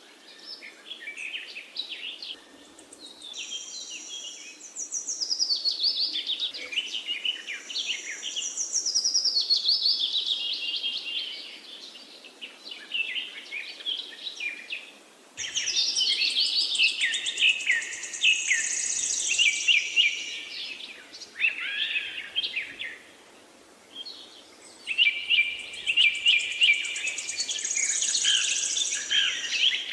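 Parakeets chirping and chattering in long, busy runs of rapid, high warbling notes, with brief lulls about halfway through and again about three-quarters through.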